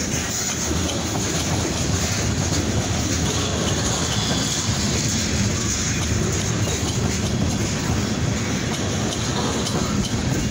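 Freight train's covered hopper cars rolling past, a steady rumble and rattle of steel wheels on the rails.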